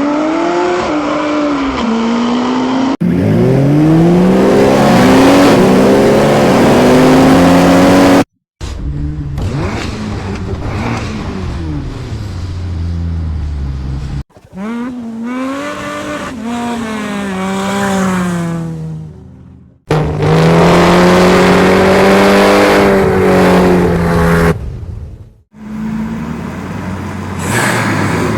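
Ferrari Purosangue's naturally aspirated V12 heard from outside, revving and accelerating: the pitch climbs and then drops back at each gear change, several times over. Short clips are cut together abruptly, and one stretch holds a steady high note.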